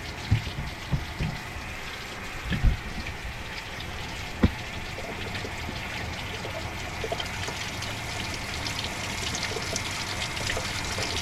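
Water running steadily through a truck's radiator and cooling system and pouring out while the system is flushed clear of gunk. A few knocks, the sharpest about four seconds in.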